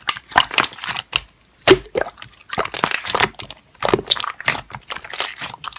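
Slime being squeezed and pressed by hand: irregular wet squishes and crackling pops, several a second.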